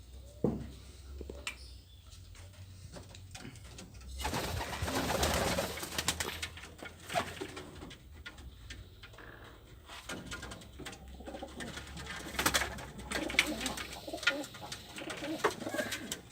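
Pigeons cooing in a small room, with scattered clicks and a loud burst of rustling about four seconds in.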